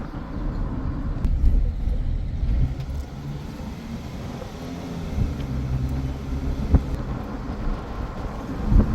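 A motor vehicle's engine running with a low rumble, the hum rising and falling.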